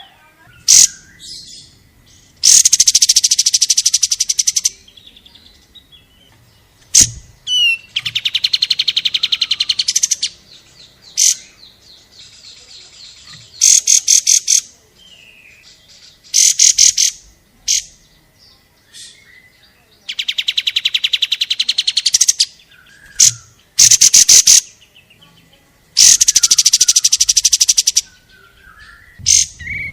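Kapas tembak songbird singing in loud bursts of very rapid, high notes, each burst one to two seconds long with short gaps between, used as masteran song material for training a konin.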